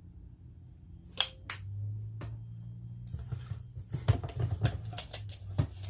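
Measuring spoon and ingredient containers handled while measuring into a slow cooker: two sharp clicks about a second in, then a run of small clicks and knocks. A low steady hum comes in about two seconds in.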